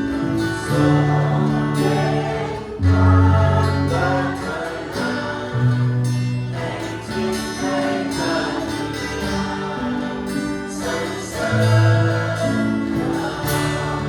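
Christian worship song: a group of voices singing together over band accompaniment with sustained low notes.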